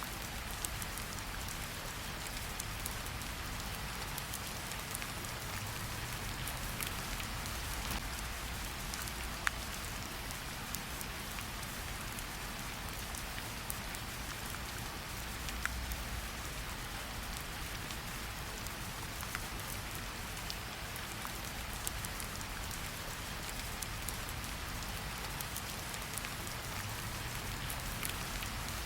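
Steady rain: an even hiss with single drops ticking now and then, two of them sharper, about a third of the way and about halfway in. A faint low rumble lies underneath.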